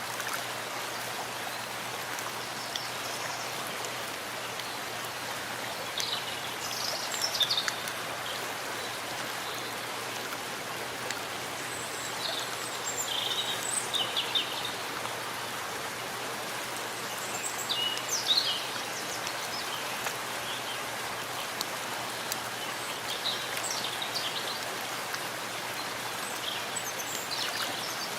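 Steady rain falling in a forest, an even hiss of drops on leaves and ground. Short high bird calls come through in a few clusters.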